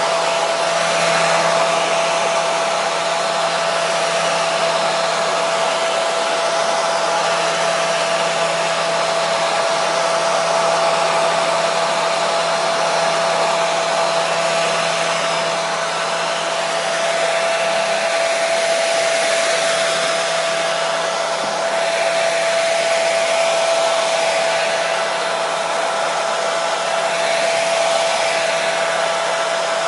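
Hair dryer running continuously: a steady rushing of air with a constant whine from the motor and fan.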